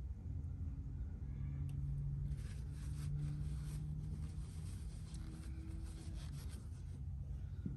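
Light rubbing and scratching from handling the generator's oil dipstick, pulled out and wiped, over a steady low hum.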